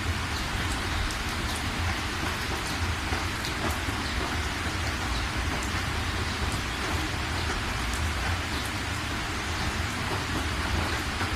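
Steady rainfall, an even hiss of rain with scattered individual drops ticking through it, over a low steady rumble.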